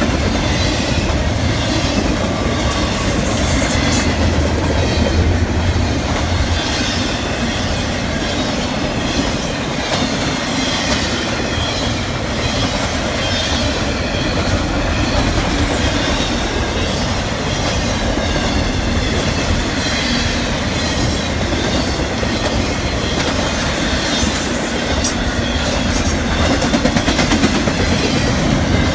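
Double-stack intermodal freight cars rolling past at speed: the steady, loud noise of steel wheels on rail, with clicking over the rail joints and a wavering high wheel squeal.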